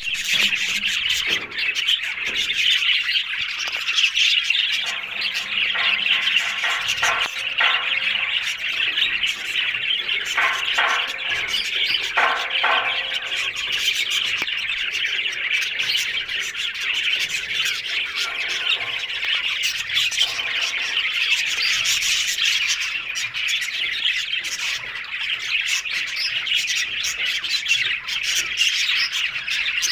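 Budgerigars chattering continuously, a dense run of high chirps and squawks, with a few longer pitched calls between about six and thirteen seconds in.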